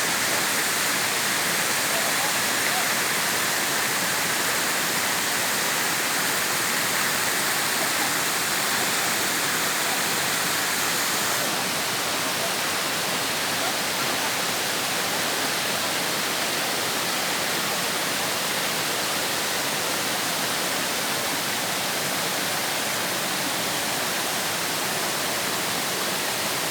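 Waterfall: a steady, even rush of falling water that eases slightly about eleven seconds in.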